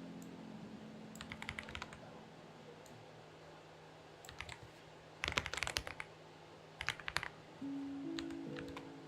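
Typing on a Xinmeng X98 mechanical keyboard in short bursts of key clicks, the fastest and loudest run about five seconds in, over soft background music with held low notes.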